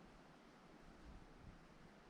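Near silence: a faint, steady hiss of outdoor ambience with a few soft low rumbles.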